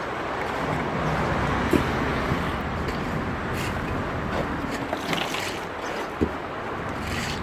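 Steady outdoor background noise, traffic-like, with a few short knocks.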